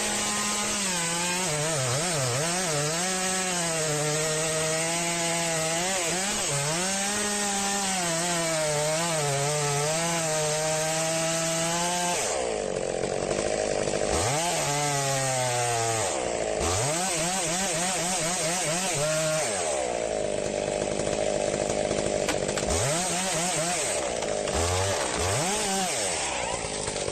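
Chainsaw cutting into wood, its engine held at high revs with the pitch wavering under load. From about halfway it drops back and is revved up again several times in quick rising sweeps, then settles back into a steady cut.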